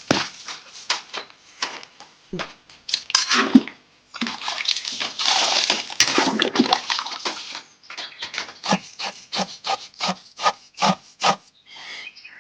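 Repeated rubbing or scraping strokes, irregular at first, then a long continuous rasp, then an even run of about three strokes a second.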